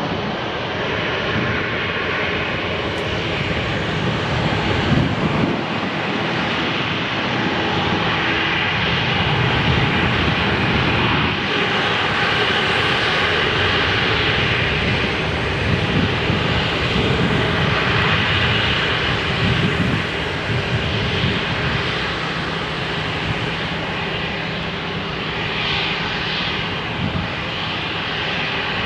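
Airbus A320 jet engines at takeoff power: a loud, steady roar with a rumbling low end.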